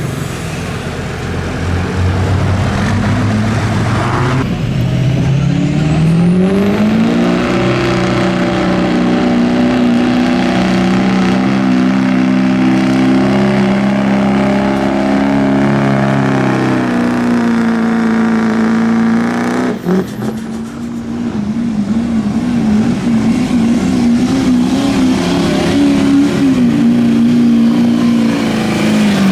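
Pulling truck's engine running hard under load as it drags a weight-transfer sled. Revs climb over the first several seconds, hold high, then drop. After a brief break about twenty seconds in, it runs high again with the pitch wavering, and falls away near the end.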